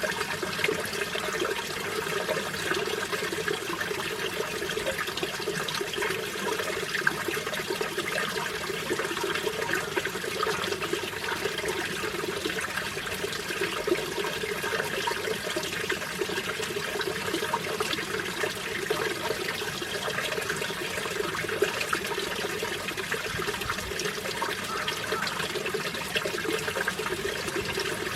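Mountain stream flowing steadily over rocks, a continuous babbling and splashing rush of water.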